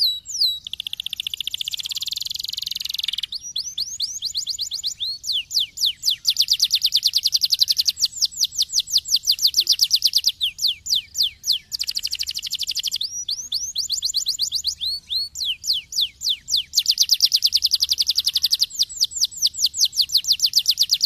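Domestic canary singing: fast runs of repeated sweeping notes, the pattern changing every few seconds, with a buzzy trill lasting a few seconds near the start.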